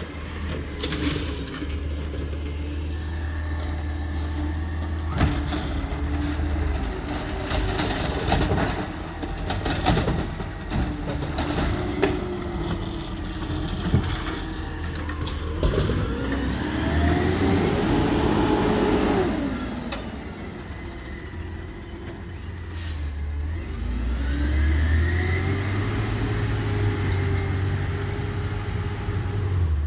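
Recycling truck's engine running, with repeated clattering crashes of recyclables tipping into the hopper through the first half. Later the engine revs up and settles twice as the hydraulics work.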